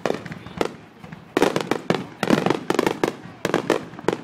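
Aerial fireworks shells bursting: a few scattered bangs, then a rapid barrage of many overlapping bangs from about a second and a half in.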